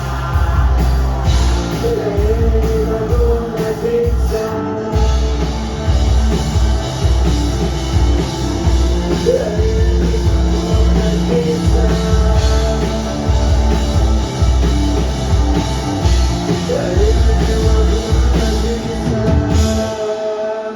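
Rock band playing loud rock music with a drum kit and heavy bass, the bass and drums dropping out about twenty seconds in.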